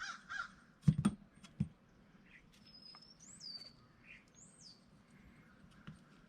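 A crow caws twice at the start. Three sharp knocks follow about a second in, loud and short. Later a small bird gives two high chirps that slide down in pitch.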